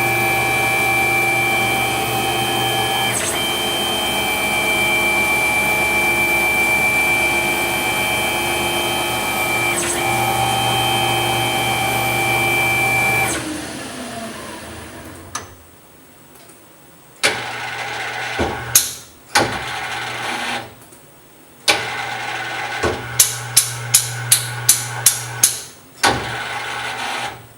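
Tormach 15L Slant-Pro CNC lathe spindle running a warmup cycle with a steady whine that briefly shifts twice, then spinning down to a stop about halfway through. After that the machine makes intermittent stop-start sounds and a quick run of sharp clicks near the end.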